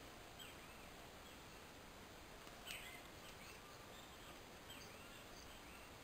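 Faint, distant songbirds chirping now and then over quiet garden background hiss. One short, louder note sweeps down in pitch about halfway through.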